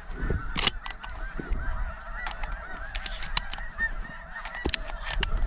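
A large flock of snow geese calling, a dense overlapping chorus of short, high yelping honks. Sharp clicks and knocks sound here and there over it, with low wind rumble beneath.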